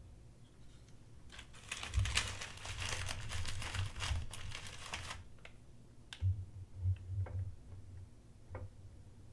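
A scratchy, rustling handling noise for about three and a half seconds, made up of rapid small clicks, followed by a few separate sharp clicks and low knocks: a knife and tester being handled on the bench during sharpness testing.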